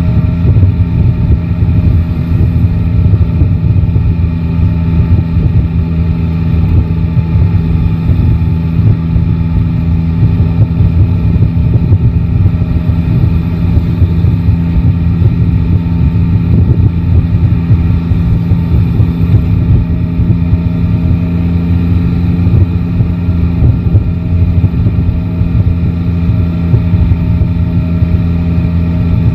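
Yamaha Tracer 9 GT motorcycle's 890 cc inline-three engine running at a steady engine speed, with no revving up or down.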